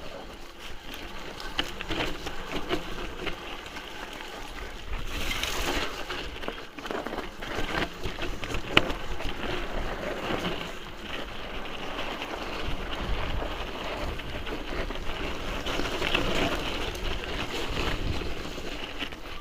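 Mountain bike being ridden over a rough trail: steady tyre noise with frequent clicks and rattles, and wind buffeting the microphone.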